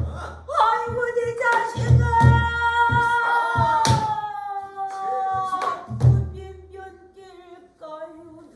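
A pansori singer holding a long, slowly falling note with ornamenting shakes, accompanied by a buk barrel drum: several deep drum strokes and sharp clicks from strikes on the drum's frame.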